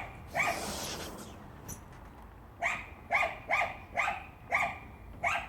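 Husky giving short, pitched barks: one early, then after a pause a quick run of about two a second. A brief rushing noise comes just after the first bark.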